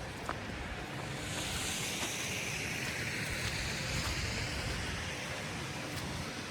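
A vehicle passing on a wet, snowy street, its tyres hissing through the slush, swelling a second or so in and fading away near the end, over a steady low rumble of city traffic.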